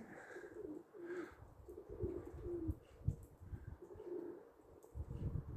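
Domestic pigeons cooing: soft low coos repeating throughout, with a few low thumps underneath.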